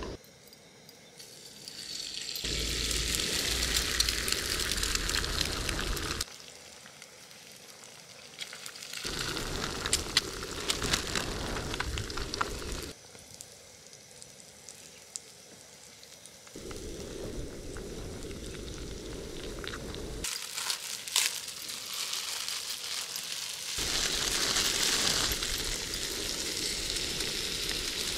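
Food sizzling in a hot sandwich maker on a cartridge gas stove as cabbage, pork belly and noodles fry for okonomiyaki, with scattered small clicks. The sizzle comes and goes in several short takes.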